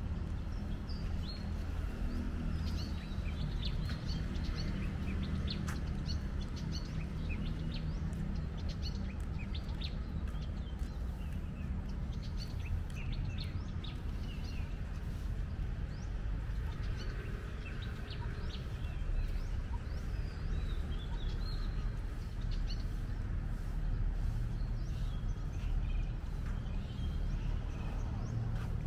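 Several small birds chirping in short scattered calls over a steady low rumble of city background noise.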